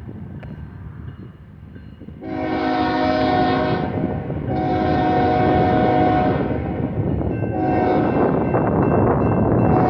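Diesel locomotive's K5HL chime air horn sounding the grade-crossing signal, long, long, short, with the final long blast starting near the end, over the low rumble of the train.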